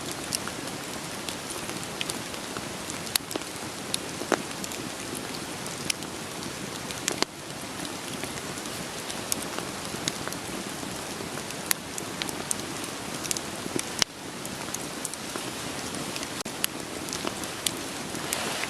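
Steady rain falling on a surface, mixed with a wood fire's crackling: sharp, irregular pops and snaps scattered over the rain's even hiss.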